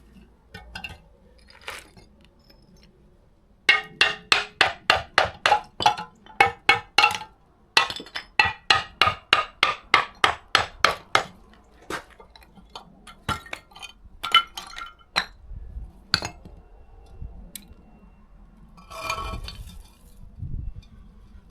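Repeated sharp clinking, hard object on hard object with a short ring, in two fast runs of about four to five strikes a second. Scattered single clinks and knocks follow.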